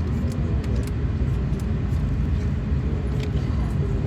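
Steady low rumble inside the cabin of an Airbus A380 taxiing on the ground, with a faint engine hum and light clicks and rattles from the cabin fittings.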